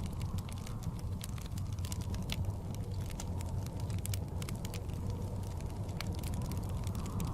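Wood fire crackling in a fireplace, with irregular sharp pops and snaps over a steady low rumble of blizzard wind.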